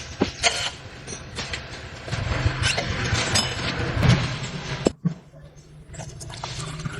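Heavy machine engine running with a steady low hum, with metallic clanks and rattles over it. The sound cuts off abruptly just before five seconds in, then builds again near the end.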